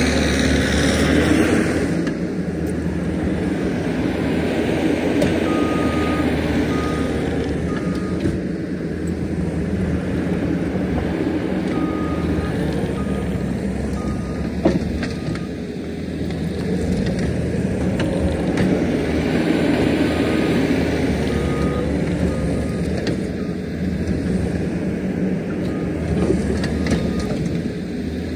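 Diesel engines of heavy earthmoving machinery running and working steadily, with a reversing alarm beeping in short runs several times as a machine backs up, and a single knock about halfway through.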